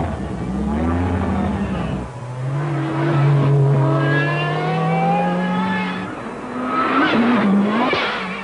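Lancia Delta S4 Group B prototype's turbocharged and supercharged four-cylinder engine pulling hard under acceleration. The revs climb, drop at a gear change about two seconds in, climb slowly through the next gear, and near the end rise and fall sharply once more.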